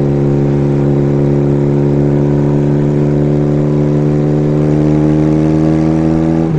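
Kawasaki 440 parallel-twin motorcycle engine running loud at steady cruising speed, its pitch holding and then creeping slightly higher.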